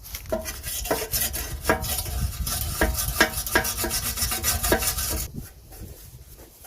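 Stainless-steel wire brush scrubbed back and forth over the tiller's sheet metal to get out stuck-on spots, a rasping scrape in repeated strokes about two to three a second, stopping about five seconds in.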